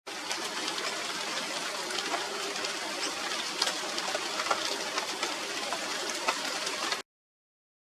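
Steady rain falling through the leaves of a china doll tree (Radermachera sinica), with frequent sharp ticks of single drops striking the foliage.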